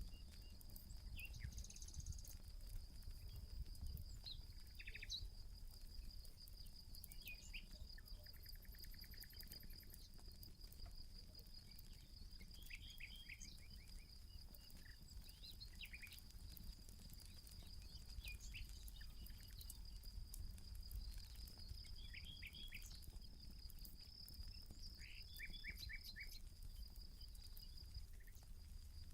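A faint, steady, high-pitched insect trill, with short bird calls every few seconds and scattered faint crackles from a campfire.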